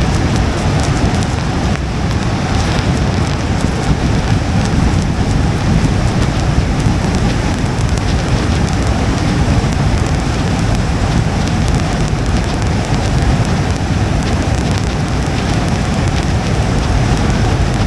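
Rain on a car's windshield over a steady low road rumble while driving in the rain, with scattered faint drop ticks.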